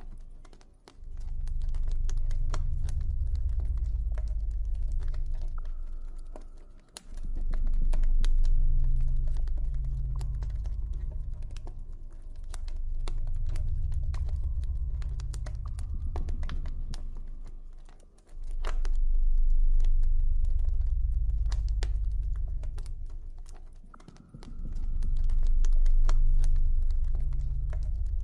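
Campfire crackling with many scattered small pops and snaps, over a deep low ambient drone that swells and fades about every six seconds.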